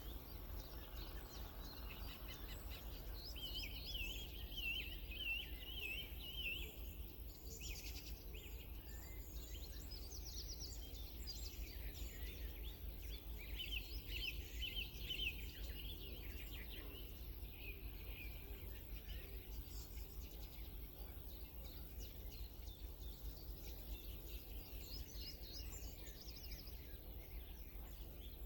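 Small birds singing faintly: rapid warbling, trilling phrases and scattered chirps, with a steady low rumble underneath.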